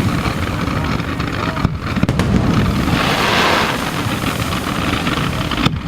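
Fireworks display: a continuous low rumble of bursts, with a brighter crackling burst about three seconds in.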